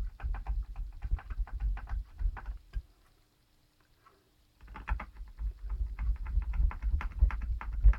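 A screwdriver driving small screws into a laptop's plastic case: quick runs of small clicks with low handling knocks. They stop for about a second and a half in the middle, then start again.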